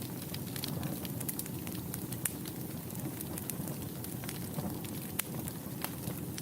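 Wood fire burning in a fireplace: a steady low rumble of flames with irregular sharp crackles and pops from the burning logs, several each second.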